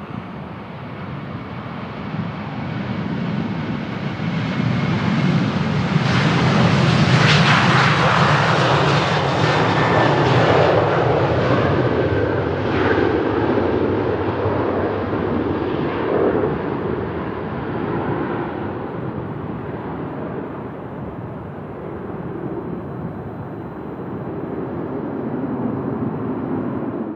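Boeing 737 jet airliner departing under takeoff thrust: the jet engine noise swells to its loudest about a quarter of the way in, then slowly fades as it climbs away. Wind rumbles on the microphone underneath.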